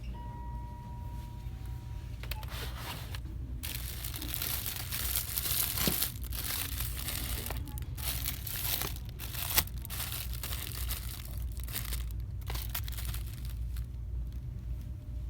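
Plastic packaging crinkling in irregular bursts as it is handled, with a sharp click about ten seconds in, over a low steady hum.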